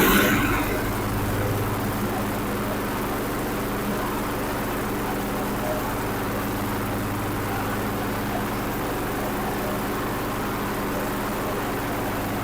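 Small gasoline engine of a John Deere HD75 walk-behind mower running steadily just after starting, a little louder in the first second before settling to an even run. It runs well after its tune-up.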